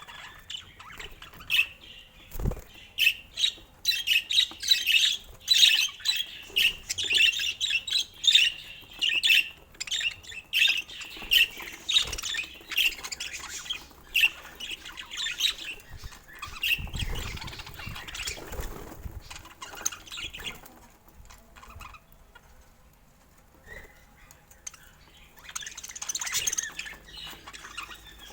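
Budgerigar chirping and chattering in quick, busy runs of short high calls, quieter for a few seconds past the middle and then picking up again near the end. There is a low thump early on and a brief low rumble past the middle.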